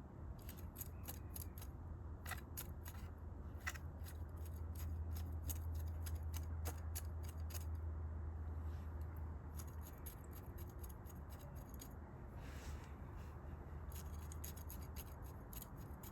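Crisp, irregular clicking and gritty crackling from hands working and pressing potting soil around seedling roots, over a steady low hum.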